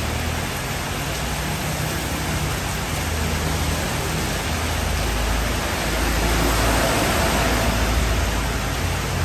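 Heavy rain falling steadily on the street and roofs, a dense even hiss. A passing motor vehicle's engine adds a low rumble, building about halfway through and fading near the end.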